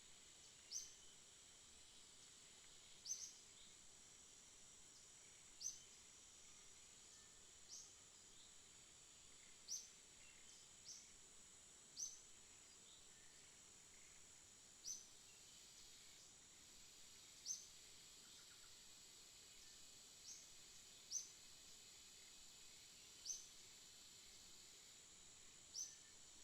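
Faint ambience of a small bird giving a single short, high chirp about every two to three seconds, over a steady high-pitched hiss.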